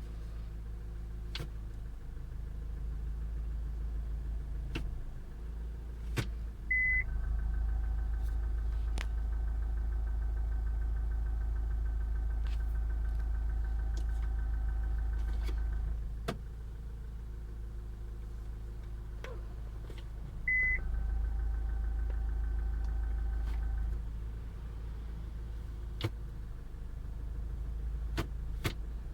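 Car engine idling with a steady low hum and scattered clicks. A short high beep sounds about seven seconds in, again about twenty-one seconds in, and at the very end; each beep is followed by a steady whine that lasts several seconds as the hum grows louder. The owner is trying to trace a vibration and an unwanted noise.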